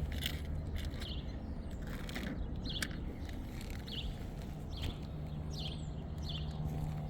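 Birds chirping, short high calls about once a second, over a steady low outdoor hum.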